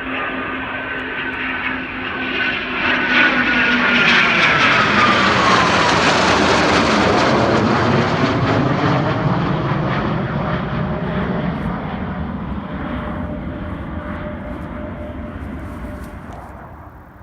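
Twin-engine military jet passing: the jet noise builds, its whine drops in pitch as it goes by about four seconds in, and the noise then fades away.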